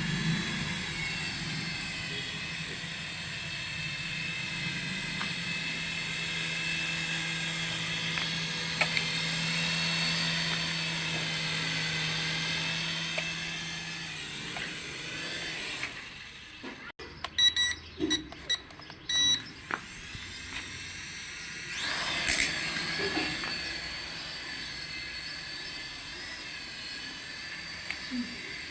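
Small electric motors of a toy RC helicopter whining steadily in several high tones. About 16 s in they drop out and a run of short electronic beeps sounds, then the whine starts again.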